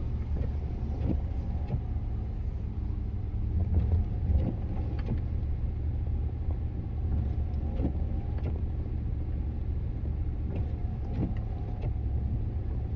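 Vehicle engine running steadily with a low drone, with faint scattered clicks over it.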